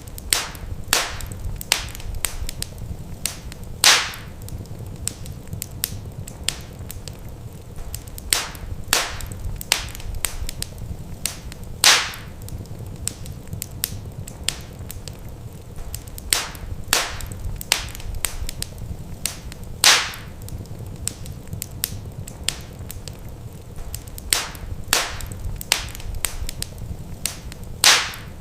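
Wood fire crackling in a fireplace: irregular sharp pops and snaps over a steady low rumble of the flames. The loudest pops come about every eight seconds.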